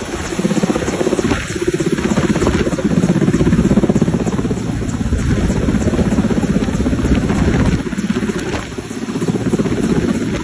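Helicopter running, its rotor blades chopping in a fast, steady beat.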